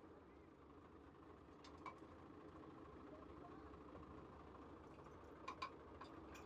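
Tractor engine idling faintly and steadily, with a few faint clicks about two seconds in and again near the end.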